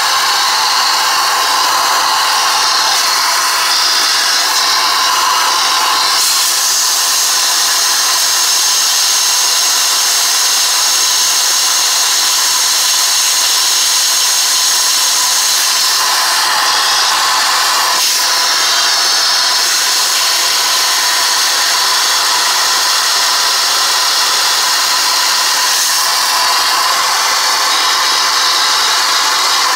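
Shop vacuum running steadily, sucking dust and lint out of a space heater. Its sound changes a few times as the nozzle moves.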